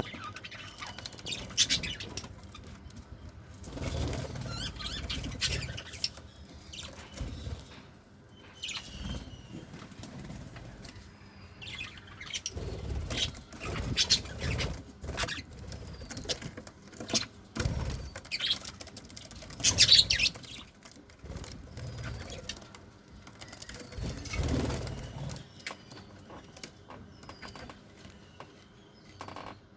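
Budgerigars flapping their wings in bursts and giving short, high chirps, with a louder flurry about two-thirds of the way through.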